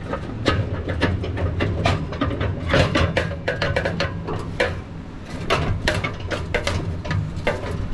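Irregular metal clanks and knocks as heavy engine parts are handled and hung inside a parts-washing cabinet, over a steady low hum from a shop heater.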